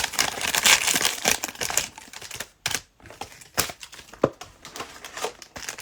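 Cellophane trading-card pack wrappers crinkling and crackling in irregular bursts of sharp clicks as the packs are handled and opened.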